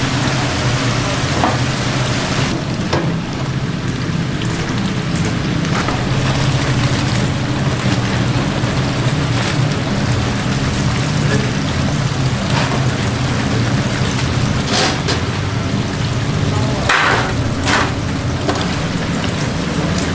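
Steady hissing noise over a low hum, with a few short clicks and clatters.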